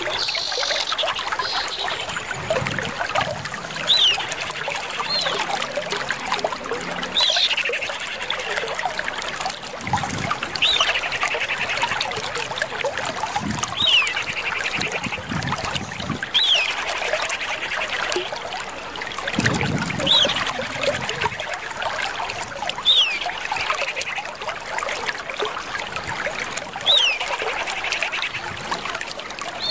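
Common iora calls: a short, sharp whistled note about every three seconds, several of them followed by a rapid trill, over a steady trickling-water background.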